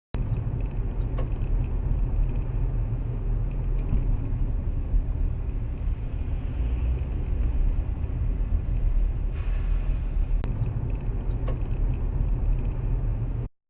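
A car driving, heard as a steady low rumble of engine and road noise. There is a faint click near the start and another about ten and a half seconds in.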